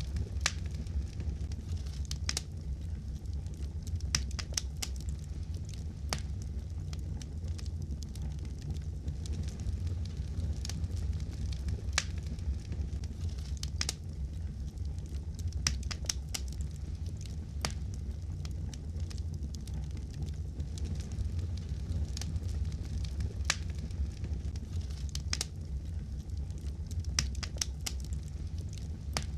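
Wood fire in a fireplace crackling: irregular sharp pops and snaps, a few clearly louder than the rest, over the steady low rumble of the flames.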